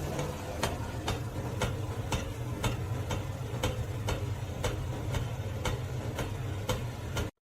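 A regular mechanical ticking, about two ticks a second, over a steady low hum; it cuts off suddenly just before the end.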